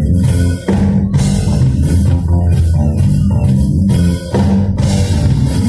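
Band music with a prominent bass guitar line, guitar and drum kit, no singing, dropping out briefly twice: about half a second in and about four seconds in.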